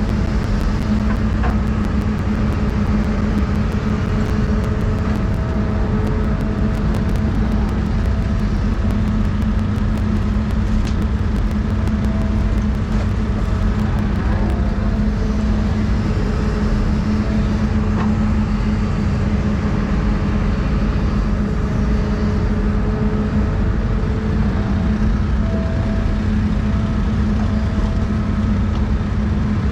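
Doosan 350 excavator's diesel engine running steadily at working speed, with a fainter higher whine coming and going every few seconds as it works.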